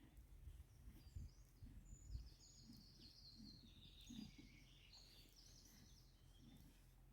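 Faint birdsong: a run of quick, high chirps starting about two seconds in and lasting a few seconds, over a few soft low thumps near the start.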